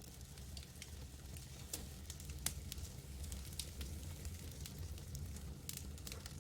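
Campfire crackling, with scattered sharp pops of burning wood over a steady low rumble; one of the louder pops comes about two and a half seconds in.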